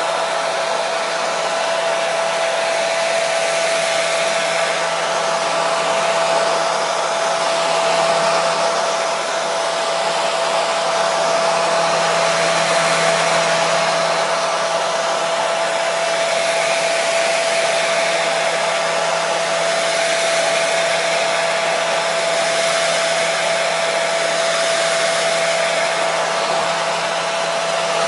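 Hair dryer running steadily: an even rush of blown air with a steady motor hum held at one pitch.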